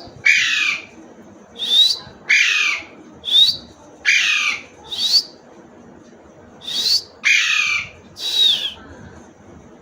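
Parrot squawking repeatedly, loud harsh screeches that mostly come in pairs: a short, high note followed by a longer, rasping call that falls in pitch. There is a pause of about a second and a half near the middle.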